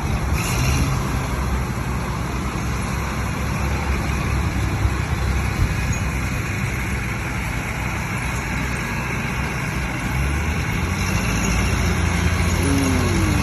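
A motor vehicle's engine running steadily: a continuous low rumble under a noisy wash, with the low hum shifting slightly about ten seconds in.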